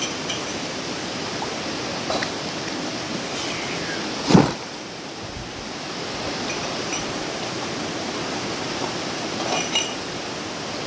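Steady rush of flowing river water, with a sudden loud thump about four seconds in and a few fainter knocks around it.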